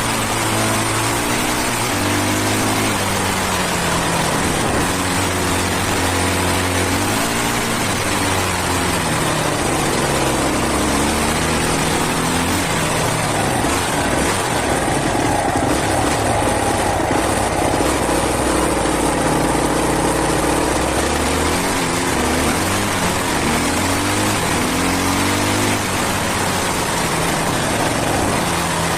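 Husqvarna 450cc enduro bike's single-cylinder four-stroke engine being ridden, its revs rising and falling over and over as the throttle is worked, with a steady rush of noise underneath.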